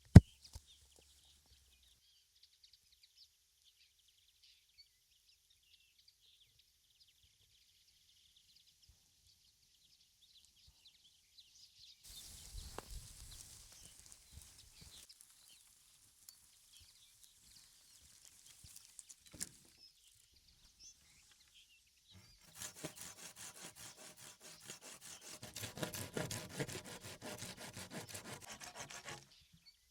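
A sharp click at the very start. About halfway through comes a bout of scraping on wood, and from about three quarters of the way in a longer run of quick, even, rhythmic strokes, like a blade sawing or rasping wood.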